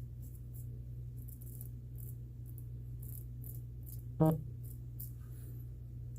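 Gold Dollar 208 straight razor scraping through stubble in short, repeated strokes, faint and scratchy, over a steady low hum. A brief pitched sound comes about four seconds in.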